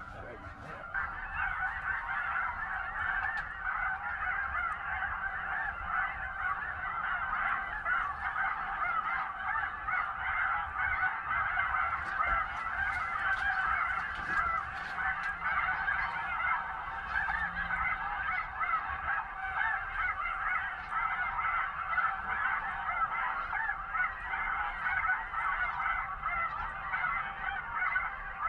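A large flock of snow geese calling: a dense, continuous chatter of many overlapping high honks.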